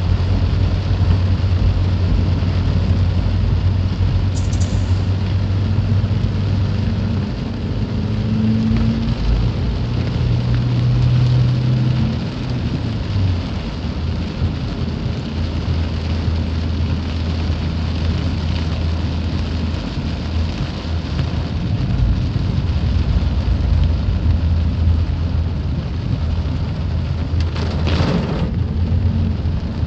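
A vehicle engine running steadily with a low hum that shifts pitch a few times, under a constant hiss of rain, with a short crackle near the end.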